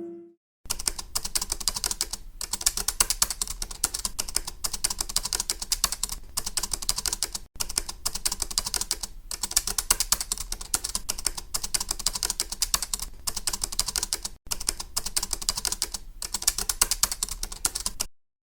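Fast, continuous typing clicks, like keys being struck on a keyboard or typewriter, broken off abruptly twice and then cut off shortly before the end.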